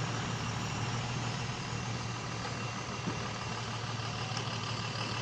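Heavy vehicle's diesel engine idling steadily.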